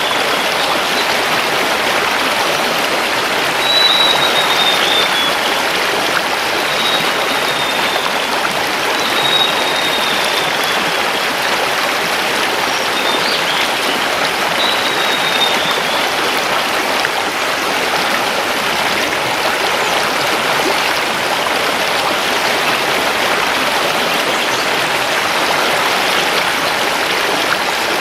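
Mountain river rushing steadily over stones. A forest bird gives several short, thin whistles that fall slightly in pitch, spread through the first half.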